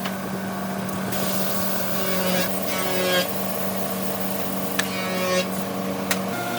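Woodworking shop machinery running with a steady hum, which stops near the end, overlaid by two short bursts of rapid rasping and a few sharp clicks.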